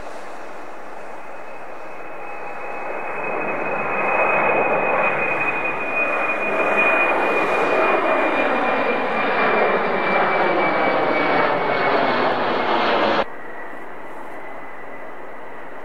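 Jet engines of a Boeing C-17 Globemaster III transport at takeoff power: a steady rushing engine noise with a high whine that slowly falls in pitch as the aircraft passes. It grows louder a few seconds in, then cuts off abruptly near the end, leaving fainter engine noise.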